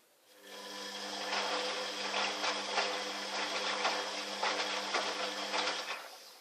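Fagor washing machine's motor turning the drum of towels during the wash cycle: a steady hum with irregular clicking that builds up about half a second in, runs for about five seconds and stops near the end.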